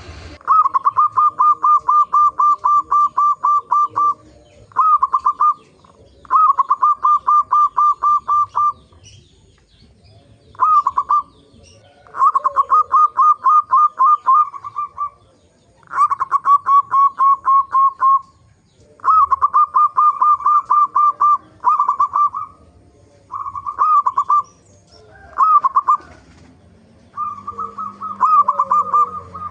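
Zebra dove (perkutut) calling: rapid rolling runs of short cooing notes, repeated in bouts of one to three seconds with brief pauses between them, used as a lure call to set other perkutut calling. Faint high chirps of small birds sound in the background.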